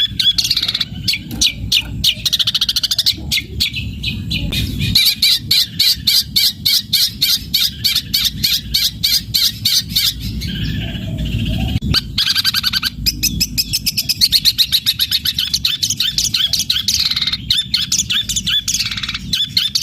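Long-tailed shrike singing continuously in fast rolling runs of rapidly repeated high notes, working in mimicked Eurasian tree sparrow chirps. A low rumble comes and goes underneath.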